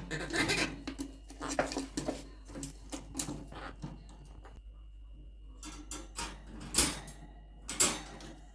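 Wire bird cage clicking and rattling as a quaker parrot clambers about inside it, with a scatter of small knocks and two sharper knocks near the end.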